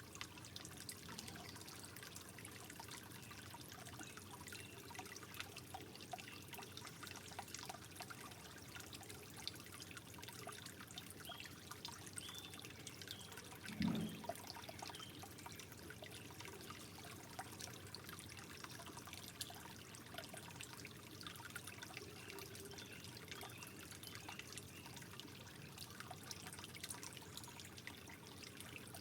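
Water trickling and dripping gently, with many small drops and one brief louder plop about halfway through.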